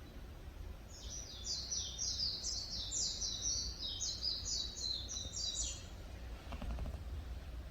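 A songbird singing one phrase of rapid, high, repeated sweeping notes lasting about five seconds, over a steady low background rumble.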